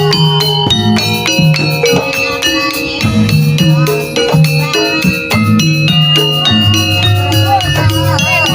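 Javanese gamelan music accompanying a jaranan dance: struck metallophone notes ring over steady drumming, with a wavering melody line coming in near the end.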